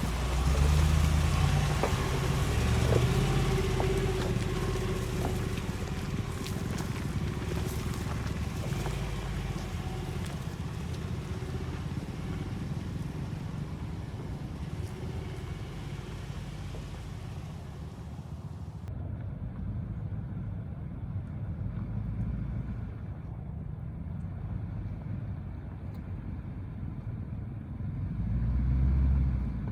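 Full-size pickup truck's gas V8 engine running off-road, with a low rumble that swells at the start and again near the end. Over the first two-thirds it is joined by a hiss of wind or tyre noise that cuts off suddenly.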